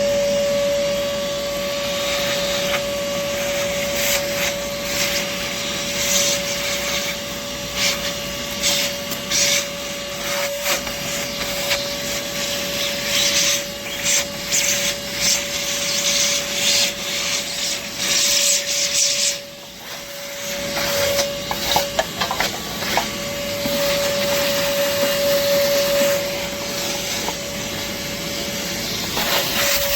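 LIGO 20V cordless wet/dry shop vacuum running with a steady motor whine. Crackling and rattling come through as debris is sucked up the hose. The sound drops briefly about twenty seconds in, then returns.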